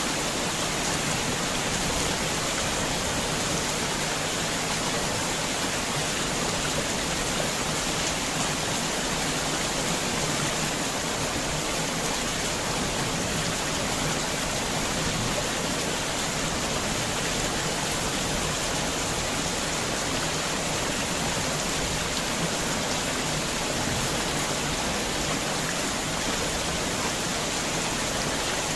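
Heavy rain falling steadily, a dense even hiss of drops with no thunder or single splashes standing out.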